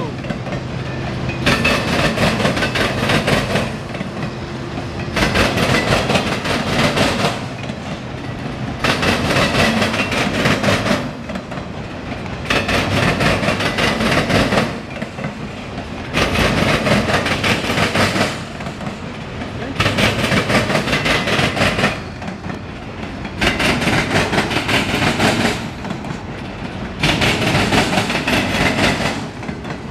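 Passing CSX freight train's cars, mostly long autorack cars, rolling by with their steel wheels clattering over the rail crossings. The clatter swells and eases in regular surges about every three and a half seconds as car after car goes past.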